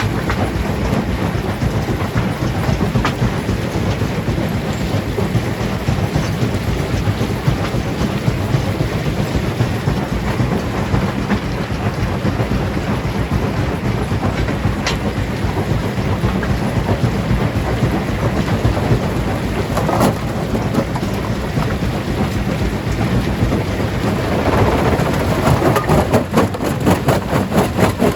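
Stone crusher working on large rocks: a continuous heavy rumble of stone grinding and crunching, with an occasional sharp crack. Near the end a rhythmic engine beat grows louder over it.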